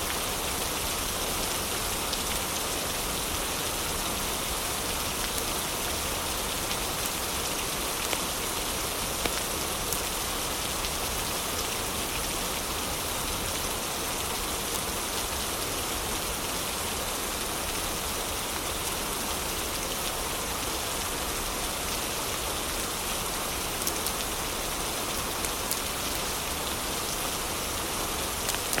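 Heavy rain falling steadily, an even wash of rain noise with a few faint, brief ticks here and there.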